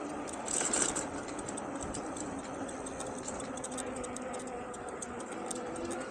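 Electric bike's hub motor whining steadily, its pitch drifting slightly with speed, over tyre and road noise, with a brief rush of noise about half a second in.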